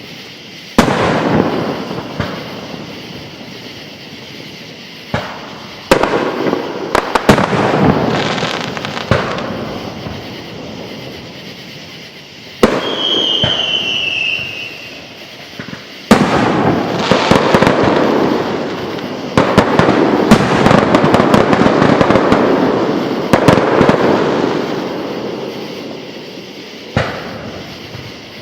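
Aerial fireworks display: shells bursting with a sharp boom every few seconds, each dying away in a rolling rumble over a second or two, with stretches of crackling. A brief, slightly falling whistle comes about halfway through.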